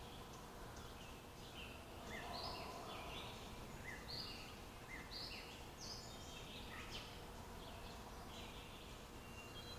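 Wild birds chirping, with short high calls coming a few times a second over a faint steady background hiss.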